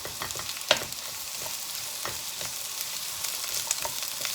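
Sliced red onion sizzling in hot oil in a pan, with the scrapes and knocks of a utensil stirring it; one sharper knock about three-quarters of a second in.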